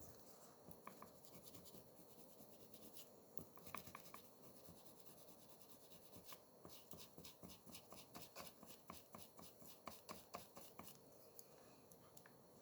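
Small hand tools working on an Apple Watch during a repair: faint scratching with short, light clicks, which turn into a quick run of about five clicks a second in the second half.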